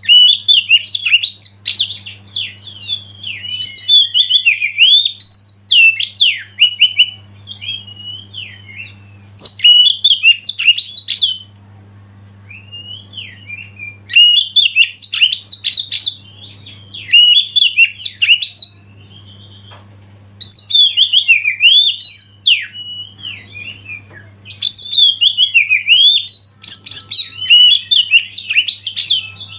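Oriental magpie-robin singing loud bursts of rapid, varied whistled and chattering notes, each burst lasting a few seconds, with short pauses between. A steady faint low hum runs underneath.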